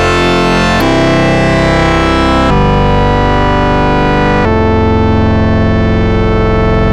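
Synthesized tones from the Desmos graphing calculator: a loud, dense chord of many steady pitches that jumps abruptly to a new set of pitches about a second in, again about two and a half seconds in, and again about four and a half seconds in.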